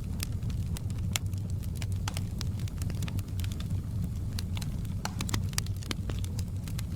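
Burning logs in a fireplace: a steady low roar of flame with frequent sharp, irregular crackles and pops from the wood.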